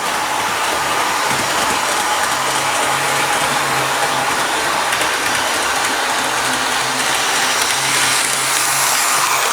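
Bachmann HO-scale McKinley Explorer model train running smoothly on its track: a steady whirring of the small electric motor and wheels, with a faint low hum that comes and goes.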